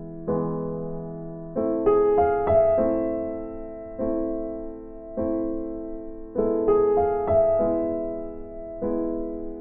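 Soft, slow piano background music: single notes and chords struck about once a second, each ringing out and fading.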